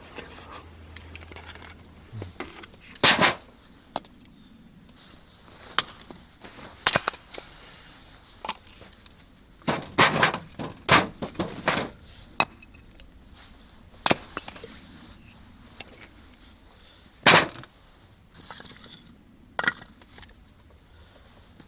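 Firewood being split and broken: a series of sharp, irregular wooden cracks and knocks, with a quick cluster of several near the middle.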